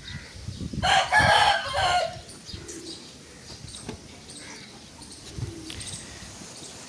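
A rooster crows once, about a second in, a loud call lasting just over a second, then low farmyard background.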